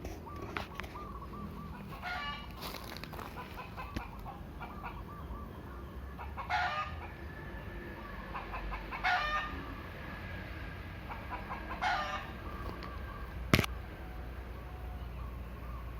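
Free-range village chickens clucking and calling, with four short loud calls every two to three seconds over softer chirps. A sharp click sounds near the end.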